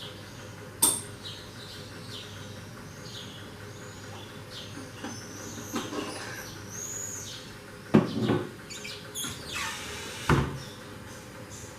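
Small birds chirping repeatedly in quick, high, arching calls, with three sharp household knocks or clatters, about a second in, near eight seconds and near ten seconds, which are the loudest sounds.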